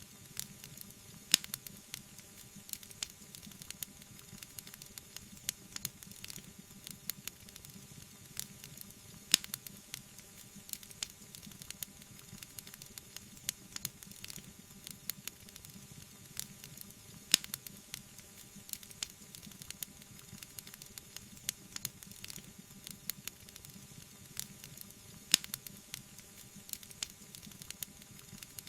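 Wood fire burning in a fireplace, crackling and hissing steadily, with many small pops and a sharper, louder snap about every eight seconds.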